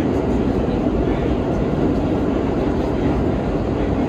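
R32 subway car running at speed between stations: a steady, even rumble and rush of wheels on rail and running gear heard from inside the car.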